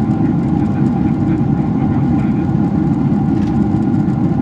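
Steady roar of cabin noise inside a Boeing 767-400ER airliner in flight: deep engine and airflow noise with a faint steady hum above it.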